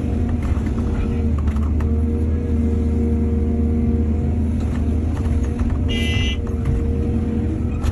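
Heavy diesel earthmoving machinery running steadily, with scattered knocks and a brief high-pitched squeal about six seconds in.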